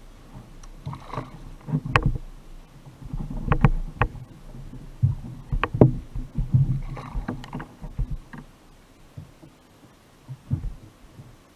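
Irregular knocks and bumps on a fishing kayak, with a few sharp clicks in the middle.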